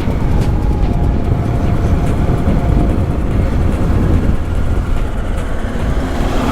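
Motorcycle riding along at steady speed: the engine running under a heavy, steady rumble of wind on the camera microphone.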